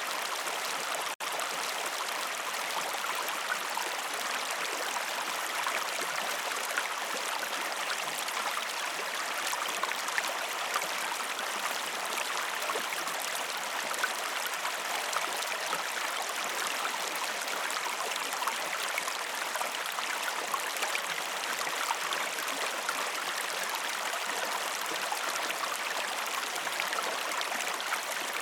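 Steady flowing water of a stream, with small trickles and splashes throughout. The sound drops out for an instant about a second in.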